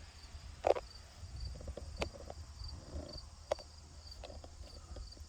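Crickets chirping in the background, a faint high chirp repeating at an even pace, with a few soft clicks and taps, the clearest one under a second in.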